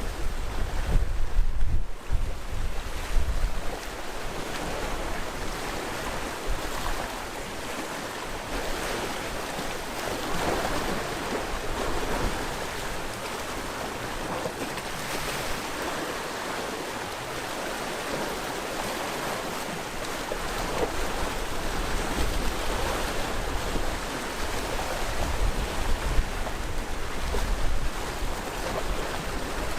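Sea waves breaking and washing along the shore in a steady wash of surf. Wind buffets the microphone with a low rumble in the first few seconds and again near the end.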